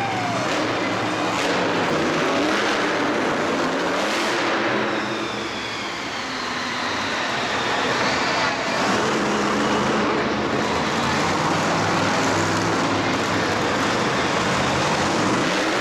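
Show vehicle engines running and revving, loud and steady, with a few short knocks and a faint rising-and-falling whine in the middle.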